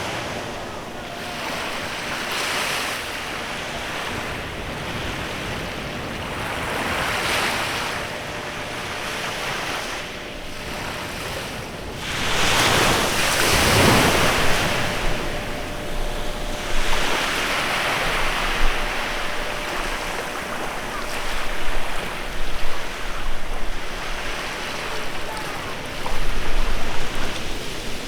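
Sea waves breaking and washing up a beach, each one a hiss that swells and fades every few seconds. The biggest break comes about halfway through.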